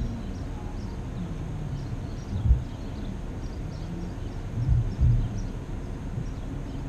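Low rumble of a vehicle idling at a standstill, heard through a hood-mounted camera, with a few louder low swells about two and a half and five seconds in, like wind buffeting the microphone.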